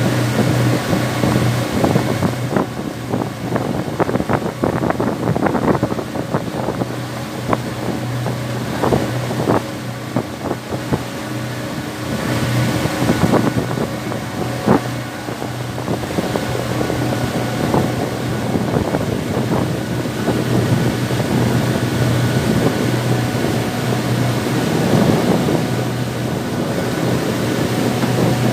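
A passenger boat's engine running steadily underway, with wind on the microphone. Irregular clicks and knocks come through over the hum, thickest in the first half.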